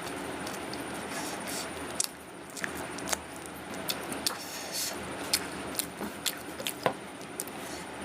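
Close-miked chewing of a vada pav: wet mouth clicks and smacks, coming thick and irregular from about two seconds in, over a steady background noise.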